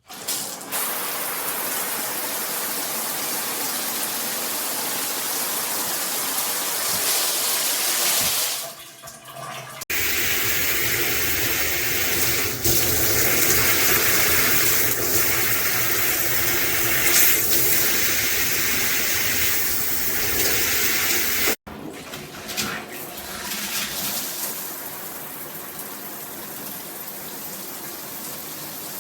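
Water spraying from a Cobbe handheld shower head: a steady rushing hiss. It dips briefly near nine seconds, comes back fuller, cuts off suddenly about two-thirds of the way through, then goes on softer.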